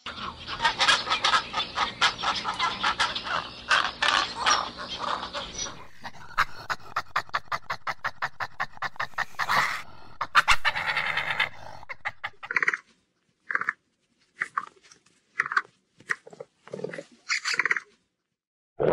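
Animal calls in three runs: about six seconds of dense, rapid calling, then a fast clicking chatter from a European badger, then short separate calls about once a second from capybaras.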